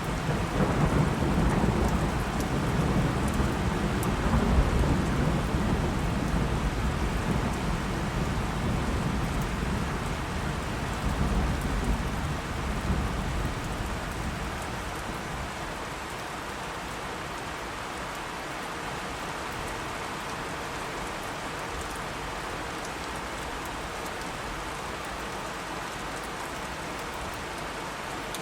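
Steady rain with a long roll of thunder rumbling low for roughly the first half, swelling and fading out about halfway through, after which the rain goes on alone.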